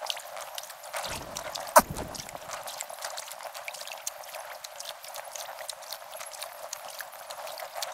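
Kayak paddle strokes splashing, with water dripping and trickling in many small clicks, and one sharp knock about two seconds in.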